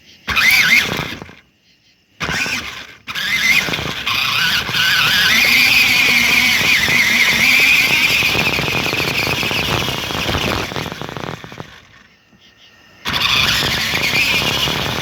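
Toy RC Jeep Wrangler's electric drive motor and gears whining at a high, wavering pitch over a rattle as it drives. It runs in bursts: two short ones, a long run of several seconds, a pause, then it starts again near the end.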